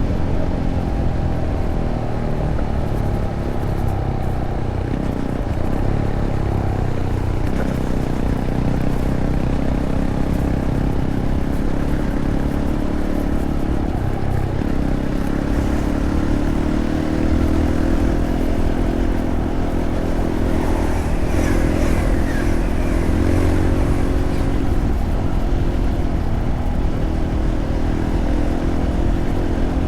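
Fantic Caballero 500's single-cylinder engine running under way through its stock Arrow exhaust, the engine note shifting pitch a few times as the revs change.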